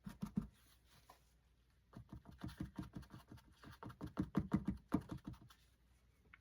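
A wet paper napkin loaded with white acrylic paint is pressed against the painting in quick, soft dabs, several a second, sponging on a mist effect. There is a short run at the start, then a longer run of about three seconds from two seconds in.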